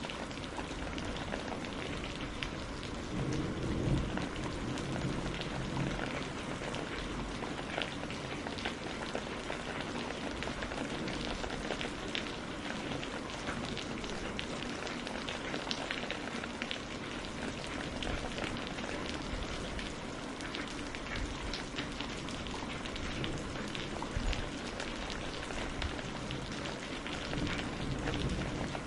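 Steady rain falling on a greenhouse roof, a constant hiss with many distinct drop ticks, and a low rumble swelling briefly about four seconds in.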